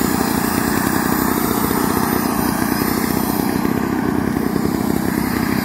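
Small piston engine of a radio-controlled model airplane running steadily and loudly, turning its propeller.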